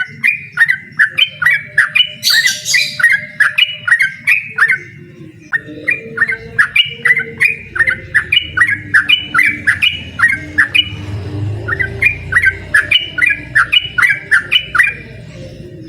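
Yellow-vented bulbul (trucukan) calling in a fast 'ropel' run of short, sharp repeated notes, about three a second, breaking off briefly twice.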